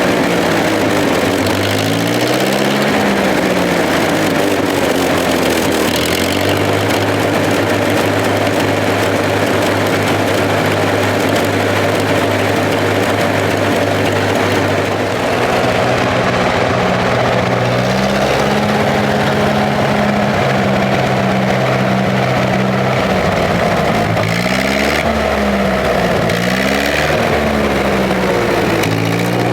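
Massey Ferguson 35 tractor's petrol engine running. It is revved up and down at the start, holds a steady speed through the middle, then is revved up and down several more times near the end.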